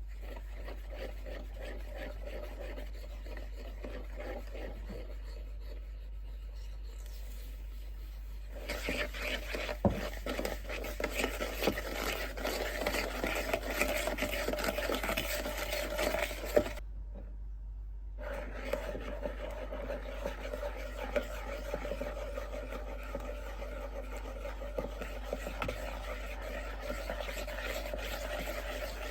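Kitchen handling sounds: rubbing, scraping and stirring with small clicks, in separate stretches broken by cuts, over a steady low electrical hum.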